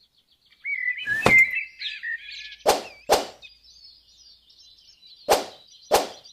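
Five sharp knocks, one then two pairs, each pair a fraction of a second apart, over birds chirping.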